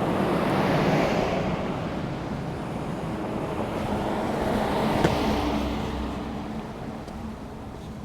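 Two cars passing one after the other on a paved road, the tyre and engine noise swelling as each goes by, the first about a second in and the second about five seconds in, then fading away.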